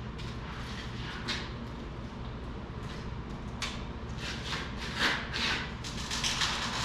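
Cat 259D3 compact track loader's diesel engine idling steadily, with a few short clicks and hisses over it, the strongest cluster about five seconds in.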